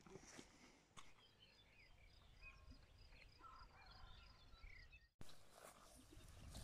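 Faint songbirds singing: a rapid series of short repeated high notes with scattered chirps over them, cut off abruptly about five seconds in.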